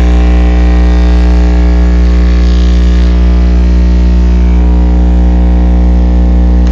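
Lanzar subwoofer wired straight to 120-volt wall power, blaring a loud, steady 60-hertz mains hum with a buzzy stack of overtones. The speaker is being overdriven by the mains voltage, cooking its voice coil.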